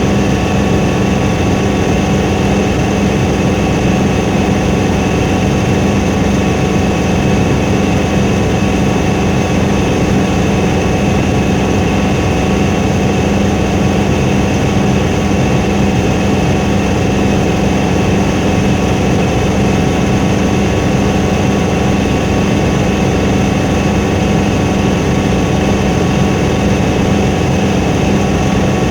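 Helicopter in flight: a loud, steady drone of engine and rotor that holds the same pitch and level, with no change.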